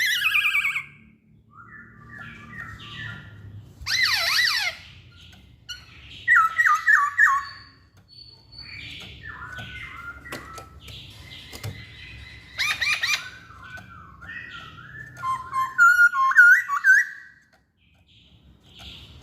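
Black-throated laughingthrush singing: a string of loud, varied whistled phrases and rapid downward-sweeping notes, broken by short pauses.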